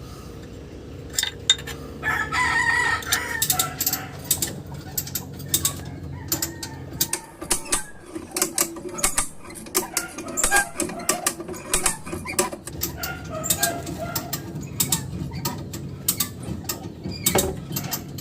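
Repeated sharp metallic clicks and knocks of tools and gearbox parts being handled during manual transmission assembly, with a rooster crowing once about two seconds in.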